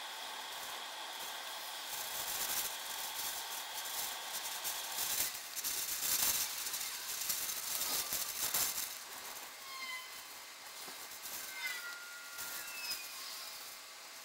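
Wind and rain noise swelling into loud gusts for several seconds and then easing, with a few short gliding calls near the end.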